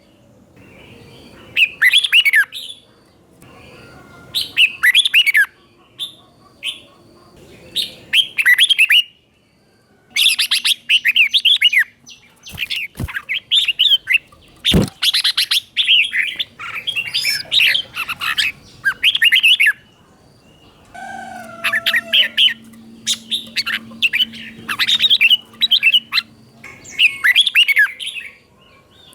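Red-whiskered bulbul singing: short, bright, warbling phrases repeated every second or two in the doubled 'beun' style prized by Thai bulbul keepers. There is a sharp click about halfway through.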